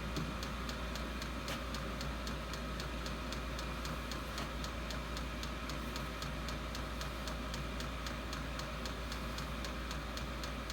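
8 kW 12 V diesel air heater running, its fuel dosing pump ticking evenly about four times a second over a steady low hum. The heater is starting to slow down.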